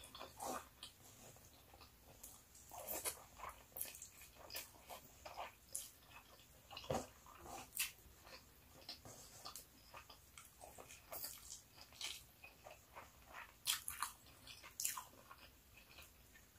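Faint close-up eating sounds: chewing with scattered wet mouth clicks and lip smacks, irregular and a few per second, from eating pork adobo and rice.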